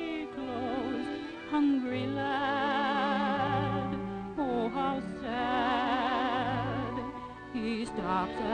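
Orchestral cartoon score: sustained melody lines with heavy vibrato, and a quick downward run about four and a half seconds in.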